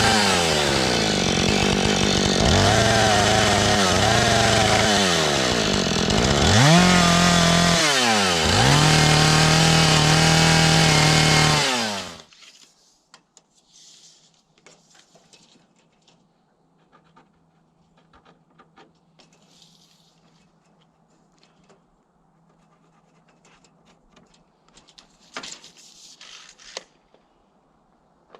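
Two-stroke chainsaw cutting wood at full throttle, its pitch repeatedly dipping as it bogs in the cut and climbing back, then shutting off suddenly about twelve seconds in. A quiet stretch follows, with a faint hum and scattered light knocks.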